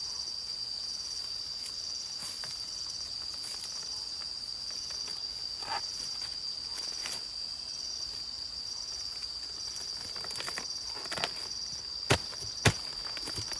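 Steady, high-pitched drone of insects such as crickets, with a slight pulsing. Near the end, two sharp clicks or knocks, the loudest sounds here, stand out over it.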